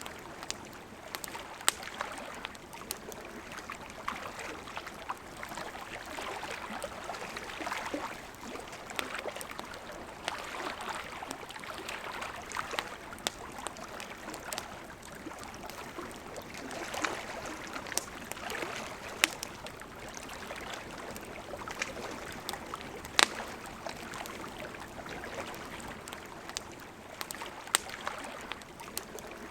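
A river's steady rush of flowing water, with a wood campfire crackling over it in scattered sharp pops, the loudest about 23 seconds in.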